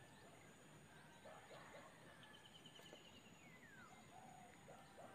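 Near silence with faint wild birds calling: a quick trill of evenly spaced high notes about two seconds in, then a short falling whistle, with a few fainter lower calls.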